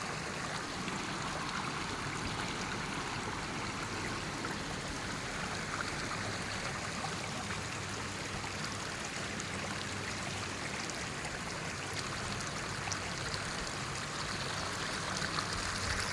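Water of a newly formed stream rushing steadily over rocks, a stream created by heavy rain and fed by water seeping out from among the rocks.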